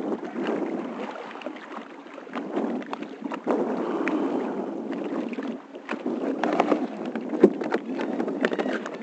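Water sloshing and splashing around a kayak as it is paddled, in uneven surges, with many small sharp knocks and clicks throughout.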